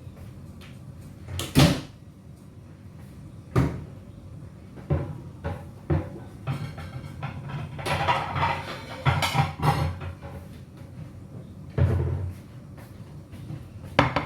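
Kitchen handling noises: a series of sharp knocks and bangs, with a longer stretch of clatter in the middle, as of cookware, utensils or cupboard doors being handled.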